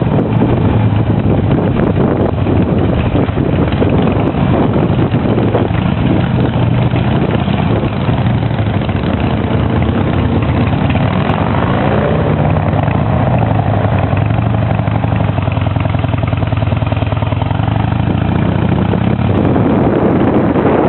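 Harley-Davidson V-twin motorcycle engine running under way, its pitch sliding down and back up in the middle as the engine speed changes.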